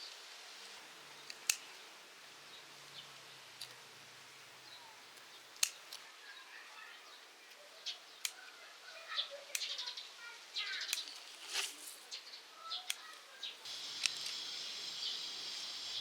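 Small birds chirping in short bursts, mixed with scattered sharp clicks and snaps; a dense high trill near the end.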